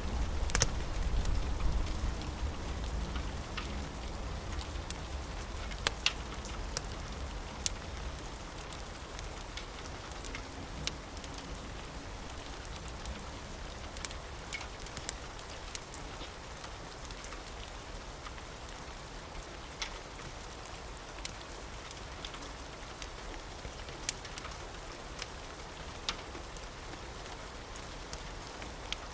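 Steady rain falling, with scattered sharp crackles from a wood fire. A low thunder rumble dies away in the first couple of seconds.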